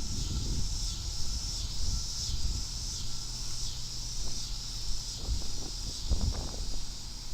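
Insects chirping in a steady chorus that pulses about twice a second, over a low rumble with a few dull thumps, the strongest about six seconds in.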